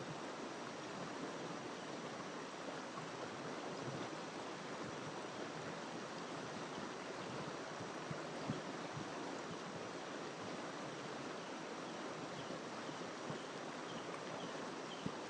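Steady rush of a jungle river flowing over rocks. Faint high chirping repeats about twice a second near the end.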